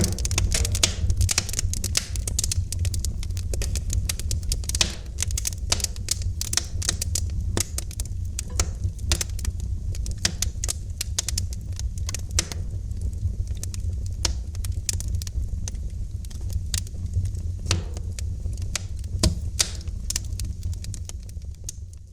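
Fireplace fire crackling, with frequent sharp snaps and pops over a steady low rumble. It fades out near the end.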